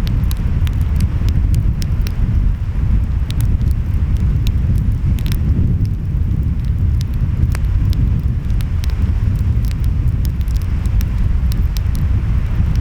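Wood fire crackling, with frequent sharp irregular pops, over a steady low rumble of ocean waves and wind.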